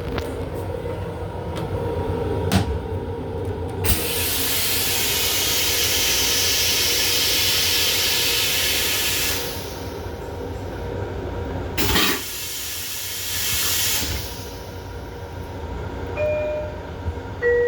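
Long Island Rail Road M7 railcar restroom toilet flushing: a loud hissing rush about four seconds in that lasts some five seconds, then a second, shorter rush a few seconds later, over the train's steady hum.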